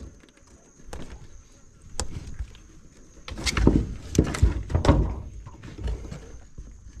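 Knocks, clatter and scraping as a feisty mud crab is wrestled out of a crab pot in a small boat. A couple of sharp clicks come about one and two seconds in, then a run of loud thuds and scrapes follows from about three and a half to five seconds.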